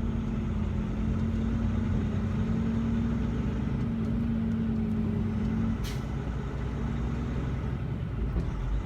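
Semi truck's engine and road noise heard from inside the cab, a steady low drone with a constant hum that fades out about six to seven seconds in. A single sharp click sounds around six seconds in.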